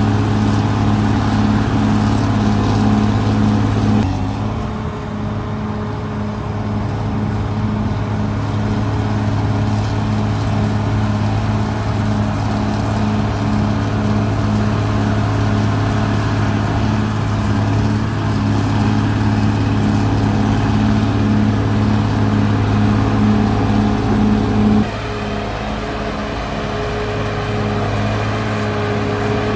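Caterpillar D6R XL bulldozer's diesel engine running with a steady, evenly pulsing low drone. The sound changes abruptly about 4 seconds in and again about 25 seconds in.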